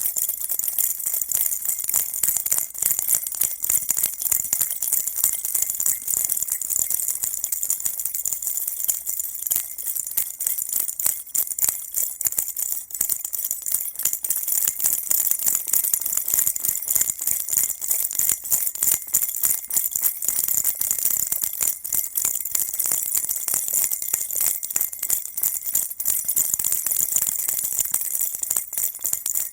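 A baby rattle shaken without pause: a dense, fast, bright jingling rattle of small beads, steady throughout.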